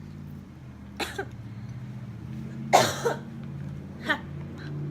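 A woman coughing three times: a short cough about a second in, a louder, longer one near the middle, and a smaller one about four seconds in.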